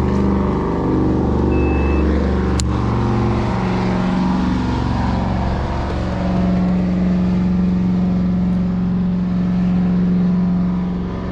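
Boat motor running with a steady low drone, its pitch shifting up and down in steps, and a single sharp click about two and a half seconds in.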